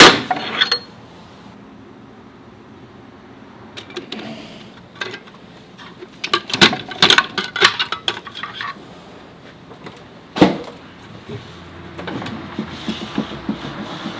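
Hand tools and metal parts clinking and knocking during dual-clutch transmission work: a hammer blow at the start, a quick run of metal clinks about halfway, one louder knock, and light rattling near the end.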